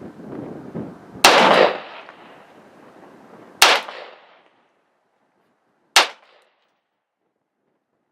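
Three gunshots about two and a half seconds apart, the first the longest. Wind buffets the microphone through the first half, then drops away.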